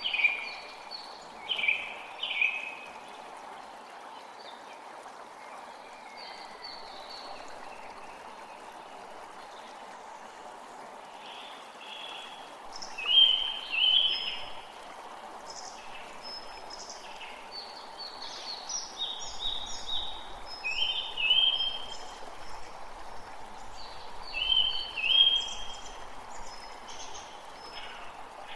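Forest creek running with a steady rush of water, while songbirds sing short repeated phrases over it, a few of them loud and close.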